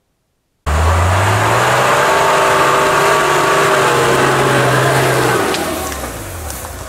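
Off-road 4x4's engine running hard under load as it crawls through a muddy rut, starting abruptly, its pitch climbing a little and then holding steady; about five and a half seconds in the revs fall and it gets quieter.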